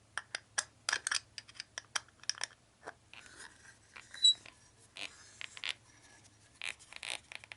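Irregular small clicks and scrapes of metal tools handled against the metal expanding mandrel while its Allen screw is tightened to spread the jaws, with one short ringing ping about four seconds in.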